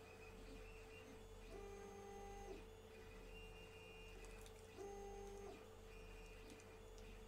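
Faint 3D printer running: a steady whine from its stepper motors, with two short passages of different, stepped tones, one about a second and a half in and one about five seconds in, as the motors change moves.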